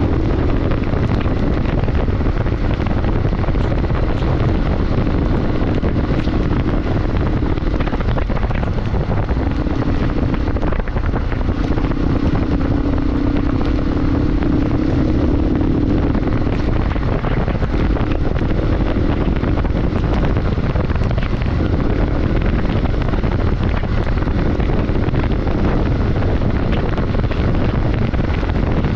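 Motorcycle on the move: its engine running steadily under a heavy rush of wind on the microphone, the engine note louder for several seconds around the middle.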